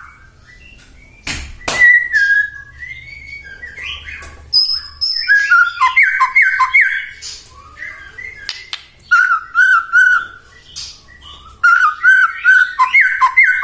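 White-rumped shama (murai batu) singing: several loud phrases of quick, repeated whistled notes, separated by short pauses. Two sharp clicks come about a second and a half in.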